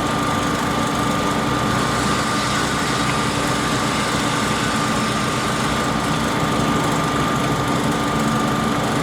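An engine running steadily at constant speed, with a steady high whine over its hum.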